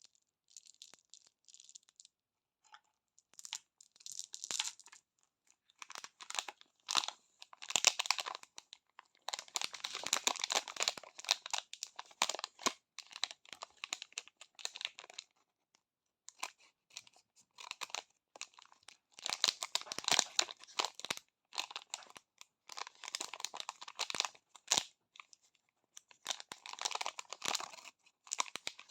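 Plastic candy wrappers being crinkled and torn open by hand: bursts of crackling and tearing with short pauses between.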